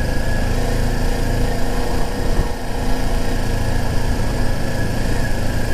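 Sport bike engine running steadily at low speed.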